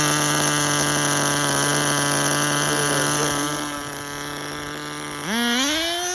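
Tamiya TGS-R nitro RC car's small glow engine running at a steady pitch, getting quieter partway through, then revving up sharply near the end. It runs on a leaned-out carburetor setting after being too rich, and now runs as it is supposed to.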